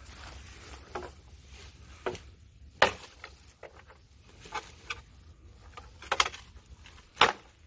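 Irregular chopping blows on wood, a handful of sharp cracks a second or two apart, the loudest about three seconds in, as a net's supports are hacked down.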